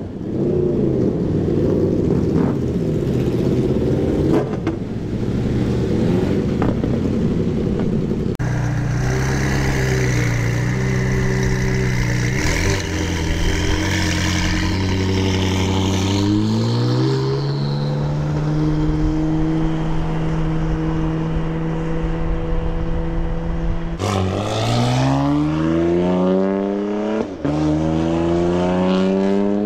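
Supercar engine revving and accelerating hard. A rough, rumbling stretch comes first, then the pitch climbs. After a steady spell it rises again in several quick steps, one per upshift, as the car pulls away.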